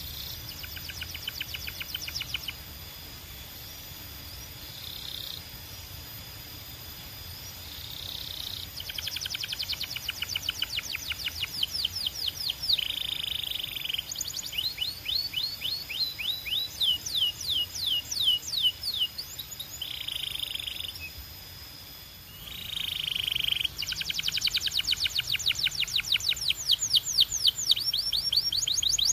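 Belgian canary singing in trilled phrases: fast runs of repeated notes and quick falling sweeps, separated by short pauses, building louder near the end.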